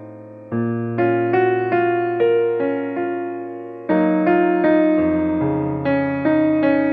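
Background piano music: soft chords and a simple melody, notes struck about every half second and left to fade.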